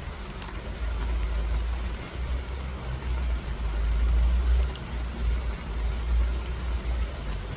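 Rain falling steadily with scattered drop ticks, under a loud, uneven low rumble that swells and fades.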